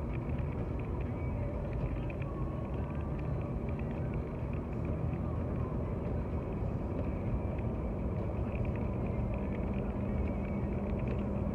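Steady low rumble of a car's engine and tyres heard from inside the cabin while driving on a snowy road, with a faint steady low hum joining about two-thirds of the way in.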